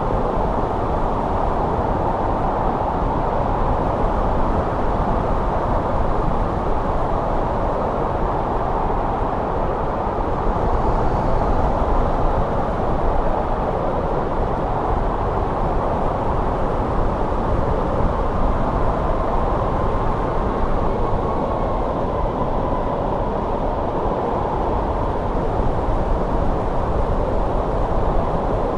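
Steady winter wind blowing: a dense, even rushing noise, heaviest in the low and middle range. A faint whistling tone drifts slightly in pitch in the second half.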